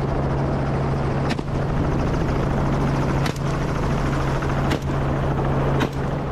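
Helicopter running steadily, a constant low hum under a rushing noise, with about four short sharp cracks spread through it.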